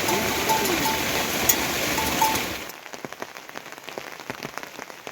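Heavy rain falling steadily, with a few short repeated high notes in the first part. About two-thirds of the way in, it drops suddenly to a much quieter patter of separate drops.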